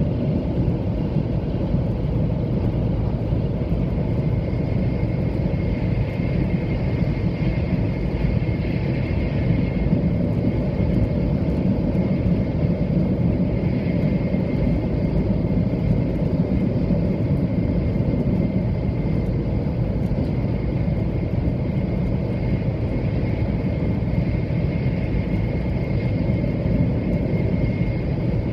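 Steady interior noise of a 700-series Shinkansen train running on the line: an even low rumble with a faint high whine held on one note.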